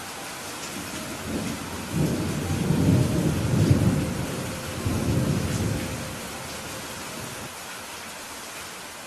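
Steady rain with a long roll of thunder that builds about a second and a half in, rumbles for several seconds and dies away.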